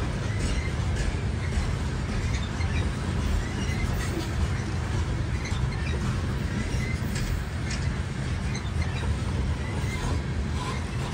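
Freight cars of a coal train rolling past: a steady low rumble of steel wheels on rail, with faint scattered clicks.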